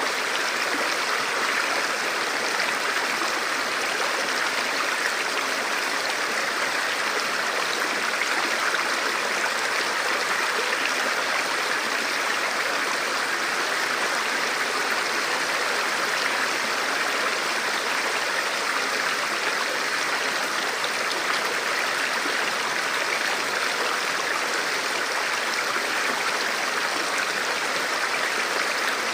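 Forest river or stream flowing over rocks: a steady, even rush of water.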